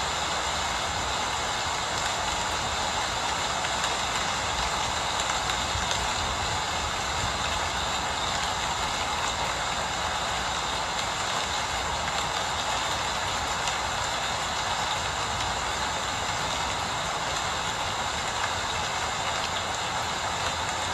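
Steady rain falling, a continuous even hiss with a faint low rumble underneath.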